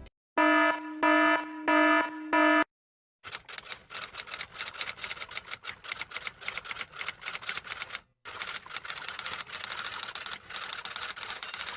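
Four short electronic beeps at an even pitch, about half a second apart, then a long run of rapid typing clatter, key clicks coming many times a second with one brief pause partway through.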